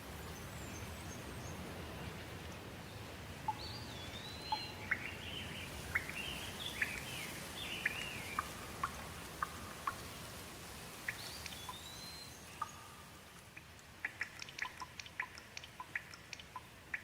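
Steady rain falling, with a bird calling in a run of short whistled, sliding notes a few seconds in and again about two-thirds of the way through. Near the end the rain thins and a scatter of quick sharp ticks, like drips, takes over.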